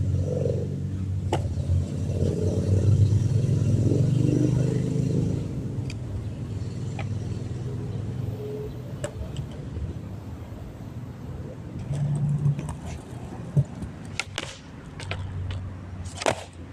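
Low, steady hum of a running engine or motor, easing off about six seconds in and returning near the end, with a few sharp clicks in between.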